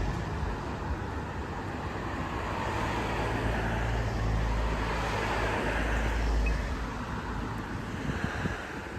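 Road traffic noise: a steady wash of vehicle sound, with a low rumble that swells in the middle and then fades as a vehicle passes.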